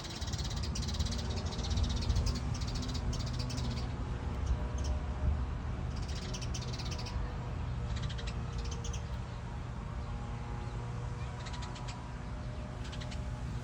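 Birds calling in short, harsh, high bursts, scattered irregularly, over a steady low rumble.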